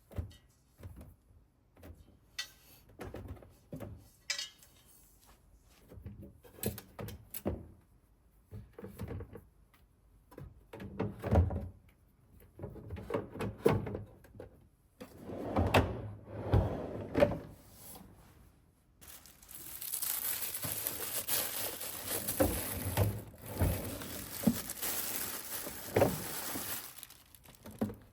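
Kitchen handling sounds: scattered knocks and clunks of things being picked up and set down. About two-thirds in, a steady rushing hiss starts and lasts about eight seconds.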